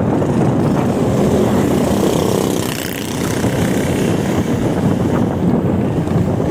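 Wind buffeting the microphone of a camera riding on a moving e-bike, a steady rushing noise that dips briefly about halfway through.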